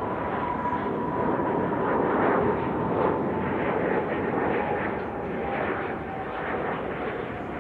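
Jet airliner passing close: a steady roar of jet engines with a whining tone that slowly drops in pitch as the aircraft goes by, loudest a couple of seconds in and then easing off.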